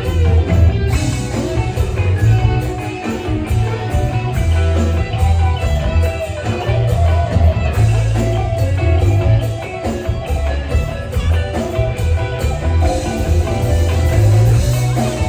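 Thai rock band playing live, a guitar-led passage over drum kit and heavy bass, with no singing.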